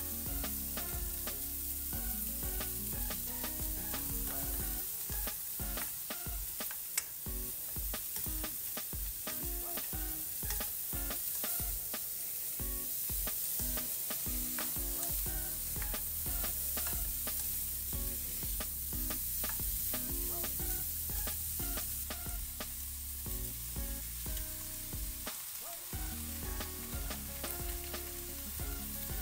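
Shrimp and vegetables sizzling in oil in a nonstick pan, stirred with a silicone spatula, a steady frying hiss throughout. Light background music with held notes and a soft beat plays under it, and there is one sharp click about a quarter of the way in.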